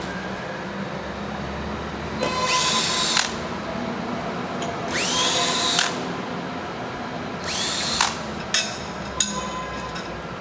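Power drill with a clutch setting running in three short bursts on screws in a steel table frame, its whine rising each time the motor spins up. A few sharp clicks follow the third burst.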